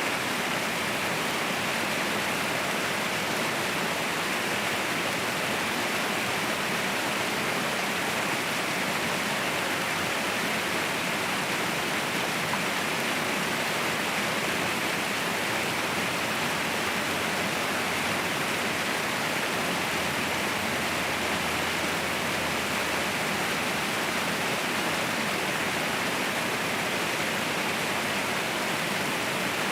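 Waterfall rushing in a steady, even roar of falling water, with no breaks or changes.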